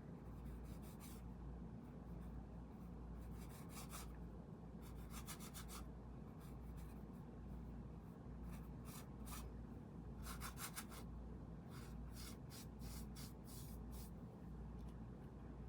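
Paintbrush scraping across canvas in short repeated strokes, in bursts of quick dabs and brushes, over a faint steady low hum.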